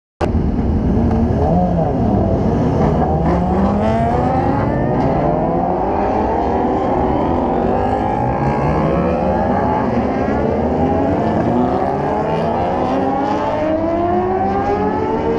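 Several superbike racing motorcycles accelerating together, their engine notes overlapping and rising in pitch again and again as they run up through the gears. The sound cuts in abruptly just after the start.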